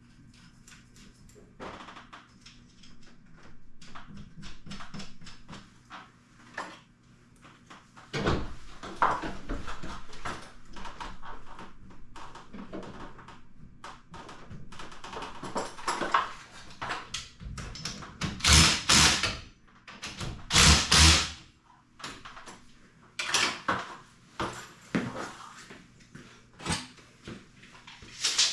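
Irregular metal clanks, knocks and scrapes of garage door hardware being handled during torsion spring replacement. About two-thirds of the way in come two louder clatters of about a second each.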